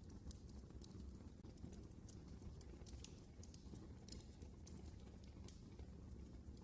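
Wood fire burning in a fireplace, crackling with faint, irregular sharp pops and snaps over a low, steady rumble.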